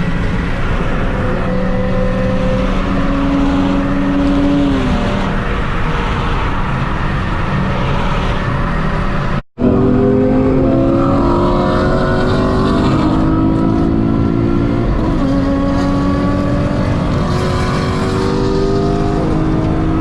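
Car engine running under load, its pitch climbing as it revs and dropping back at gear changes. It breaks off abruptly about halfway through, then carries on.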